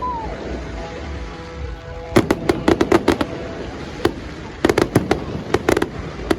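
Fireworks going off in two quick clusters of sharp crackling pops, about two seconds in and again about five seconds in, with a short whistle at the start.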